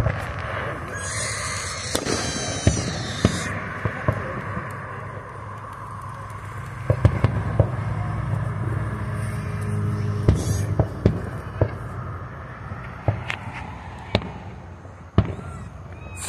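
Aerial fireworks shells bursting at a distance, a string of sharp bangs at irregular intervals. A high crackling hiss lasts a couple of seconds near the start. The low rumble of a passing car comes through around the middle.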